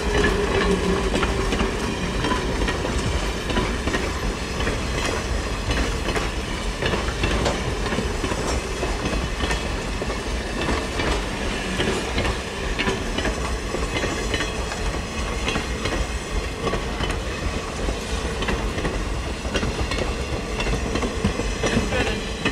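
A string of cabooses rolling past on the rails: a steady rumble of car wheels with repeated clicking as they pass over the rail joints.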